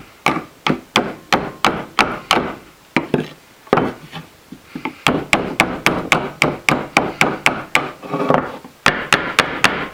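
Hammer blows on wood, struck in quick runs of about three a second, with a pause partway through and a faster flurry of blows near the end.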